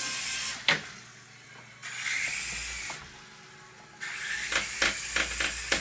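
A toy helicopter's small electric motor and rotor whirring in three short spells, with sharp clicks and taps during the last one.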